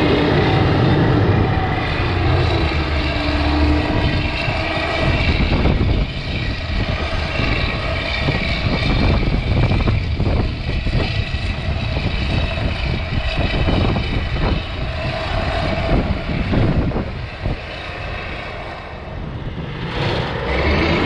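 Heavy diesel machinery running steadily as snowcats and tractors work a corn silage trench. The sound drops somewhat about six seconds in and changes abruptly near the end.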